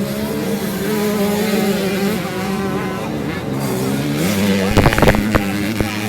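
Motocross bike engines revving and shifting pitch as the bikes race round the dirt track. Several loud knocks come about five seconds in and again at the very end.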